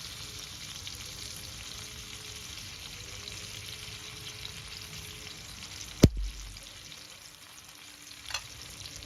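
Hot cooking oil sizzling steadily, with one sharp knock about six seconds in, after which the sizzle is quieter.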